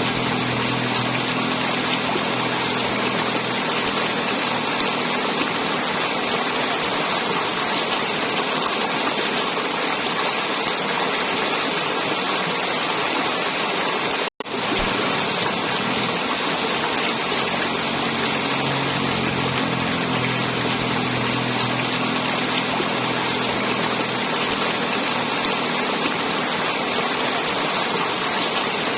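River water flowing and gurgling, a steady, even rush. The sound drops out for an instant about fourteen seconds in.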